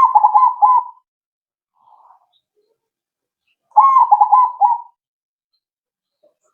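Crossbred zebra dove (perkutut) singing: two song phrases about four seconds apart, each a quick run of rolling coos lasting about a second.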